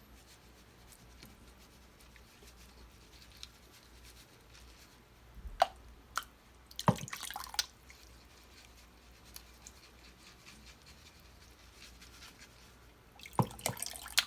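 Water dripping from a filter full of coffee grounds into the soaking grain water, with a couple of sharp clicks and short noisy bursts of handling about halfway through and near the end.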